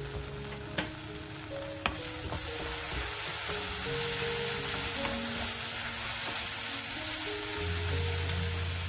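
Sliced fish cakes sizzling in a wok while being tossed with wooden spatulas. There are a couple of sharp clicks in the first two seconds, then steady sizzling from about two seconds in.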